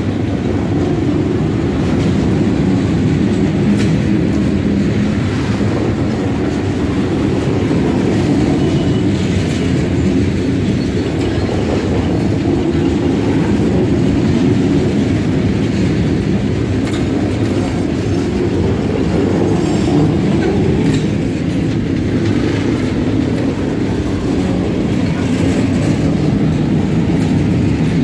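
Freight train boxcars rolling past close by: a steady, loud rumble of steel wheels on rail, with scattered clicks and clanks from the wheels and couplers.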